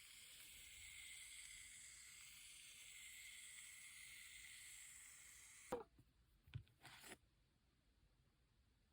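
Aerosol can of shaving foam spraying with a steady hiss, then cutting off suddenly with a sharp click, followed by a few short knocks.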